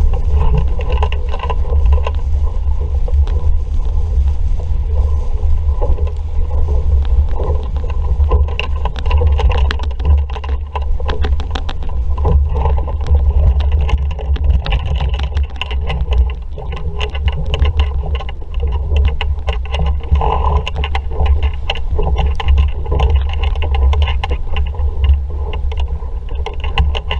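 Wind buffeting the microphone aboard a sailing dinghy underway in a breeze, with water rushing and splashing against the hull and frequent sharp slaps and spray.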